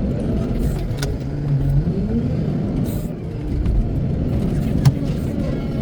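Wheel loader's diesel engine running and revving up about two seconds in and again near the end, with a few sharp clicks, the loudest a little before the end.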